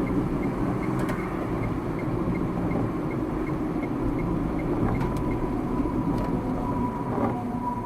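Steady road and engine rumble of a car heard from inside the cabin while driving, with a faint regular ticking about three times a second.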